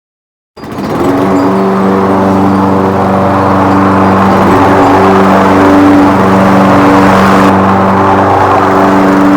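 Commercial Toro mower running loudly and steadily, starting suddenly about half a second in.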